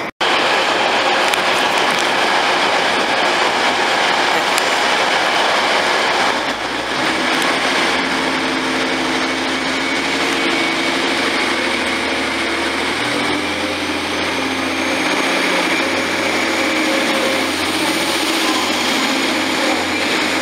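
TransPennine Express diesel multiple-unit trains at a station platform, their engines running steadily. An engine drone settles in about a third of the way through, and a faint high whine slowly rises in the second half.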